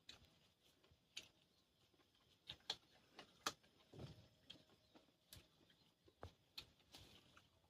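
Faint, irregular crunches and mouth clicks of someone chewing raw fruit, about a dozen sharp ticks scattered unevenly.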